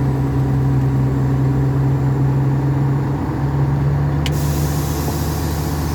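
Scania 143's 14-litre V8 diesel running steadily under load as the truck climbs a hill, heard from inside the cab; its note dips briefly about three seconds in and then holds a little higher. A sharp click about four seconds in is followed by a steady hiss.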